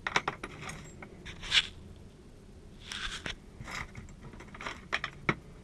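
Keys and small metal lock parts being handled: a run of short clicks and brief scrapes, with two sharp clicks near the end.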